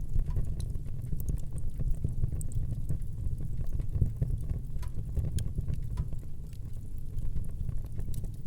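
Fire burning in a fireplace: a steady low rumble of flames with many scattered sharp crackles and pops.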